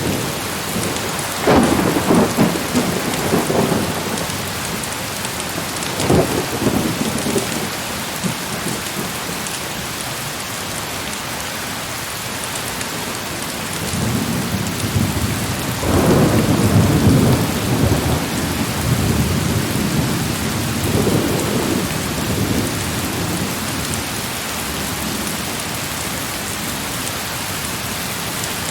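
Heavy rain falling steadily, with thunder rolling over it: a rumble about a second and a half in, another about six seconds in, and a longer, heavier rumble lasting several seconds around the middle.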